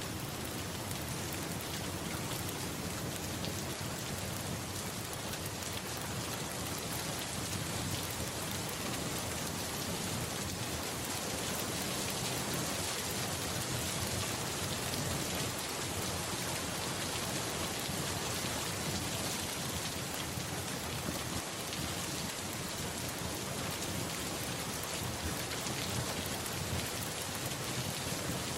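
Steady rain falling on a surface, an even continuous hiss of many drops that holds at the same level throughout.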